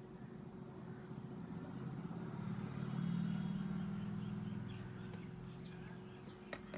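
A motor vehicle's engine passing, its low drone swelling and then fading over a few seconds, with a few faint bird chirps and one sharp click near the end.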